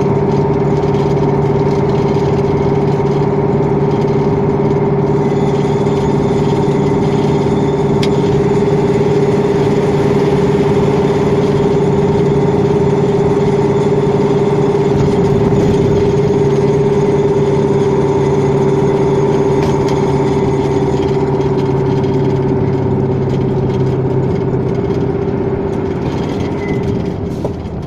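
KamAZ dump truck's V8 diesel engine heard from inside the cab, running at a steady speed while driving, with a steady low drone and a higher hum. It eases off near the end as the truck slows.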